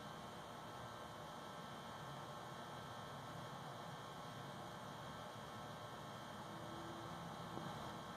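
Faint, steady hum and hiss with no distinct events.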